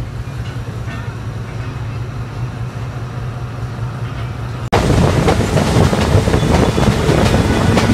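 Passenger train heard from an open coach door: first a steady low hum as it rolls slowly, then, after an abrupt cut about four and a half seconds in, a much louder clatter of wheels over the rails at speed.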